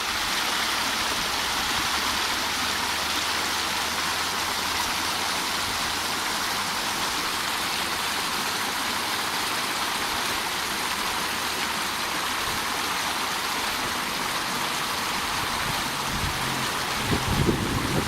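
Steady rushing water noise. A low, uneven rumble comes in near the end.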